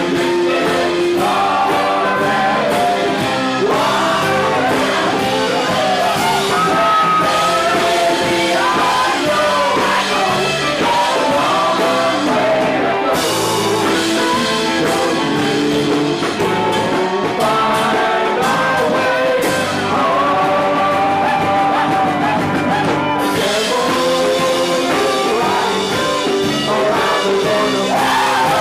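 Live rock band playing loud and steady, with a bending, sliding melody line over the chords.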